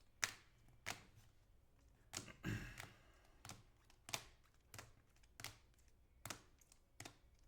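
A row of light, sharp clicks, about ten of them, roughly two-thirds of a second apart, with one brief breathy sound about two and a half seconds in.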